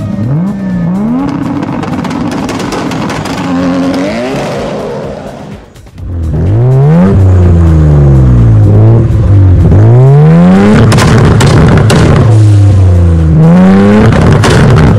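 High-revving car engine accelerating hard, its pitch climbing and dropping again and again as it shifts up through the gears. It goes briefly quieter about six seconds in, then comes back much louder.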